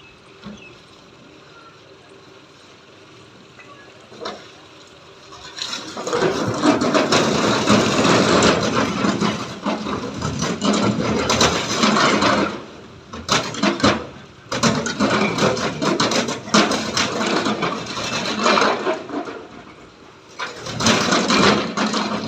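Bricks being unloaded from a tractor trolley: a dense, loud clatter of bricks knocking and tumbling against one another, starting about six seconds in and going on with a few short lulls.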